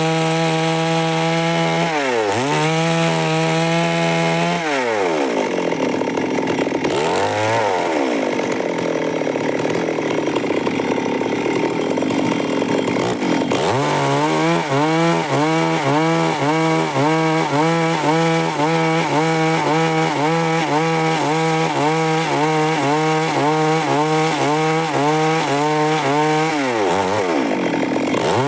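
Stihl MS 382 two-stroke chainsaw running at high revs and cutting wood. The engine note dips briefly a few times as the chain bites. For several seconds in the middle it is buried in rough sawing noise, and later it holds steady with a regular wavering as the cut goes on.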